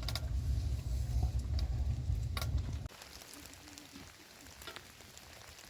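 Rain falling, with scattered sharp drop ticks over a soft hiss. A heavy low rumble under it stops abruptly about three seconds in, leaving the rain quieter.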